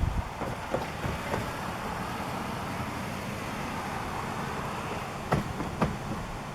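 Freight train's diesel locomotives rumbling steadily, with a few sharp knocks near the start and two more near the end.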